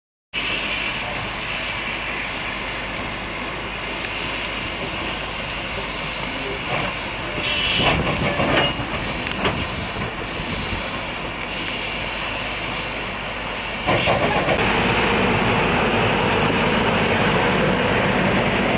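A train running, a steady rumbling noise with a few sharper louder moments about eight seconds in, growing louder about fourteen seconds in.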